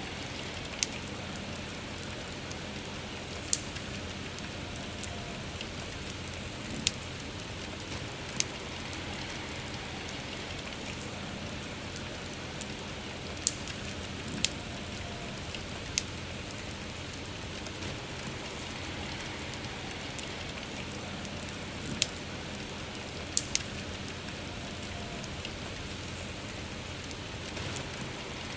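Steady soft rain with a campfire crackling under it: a constant hiss, broken every few seconds by single sharp pops from the burning wood.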